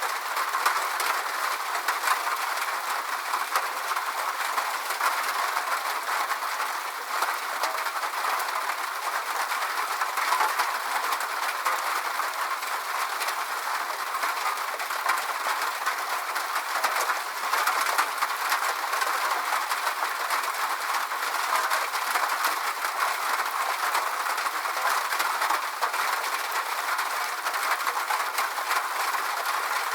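Steady rain falling, a dense patter of drops over an even wash of noise with no pauses.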